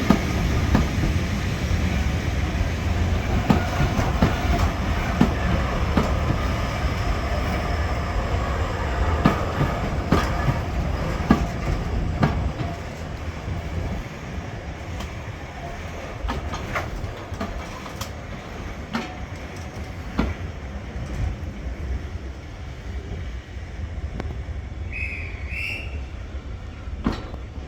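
Diesel-hauled heritage train running on the line, a low rumble with wheels clicking over rail joints. It is louder for about the first twelve seconds, then quieter. A brief high double squeak comes near the end.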